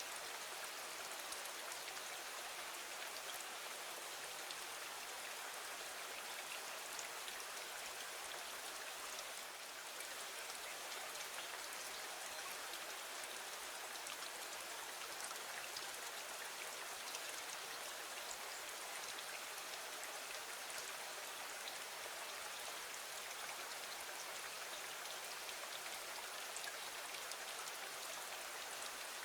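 Steady rain falling against a window: an even hiss with many small, scattered drop ticks, dipping slightly for a moment about nine seconds in.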